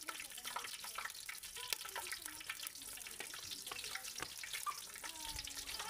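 Food frying in a cooking pot, a steady dense crackle of small sizzling pops, as the base is cooked before kale goes in.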